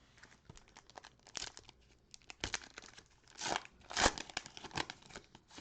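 A cellophane-wrapped trading-card cello pack being torn open and handled, a run of crinkling and crackling with several louder tearing bursts over the middle and latter part.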